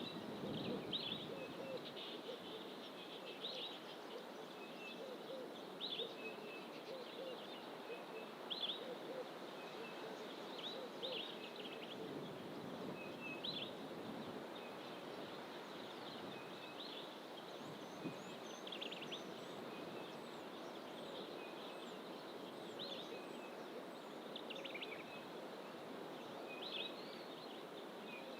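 Wild birds in fynbos bush calling over and over, a short call every second or two, with fainter, higher chirps joining in about halfway through. A steady hiss of background noise runs underneath.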